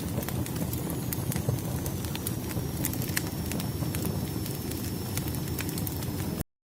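Wood fire crackling: frequent sharp pops and snaps over a low steady rumble, with a faint thin high whistle that drifts slightly down in pitch. The sound cuts out to silence briefly near the end.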